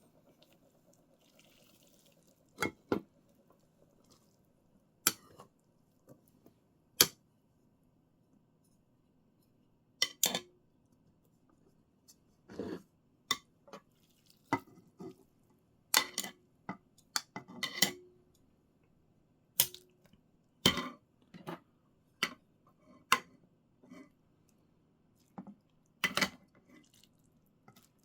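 Kitchenware clinking and knocking: a series of separate sharp clinks of dishes, pots and utensils, a few seconds apart at first and coming closer together later, some with a short ring.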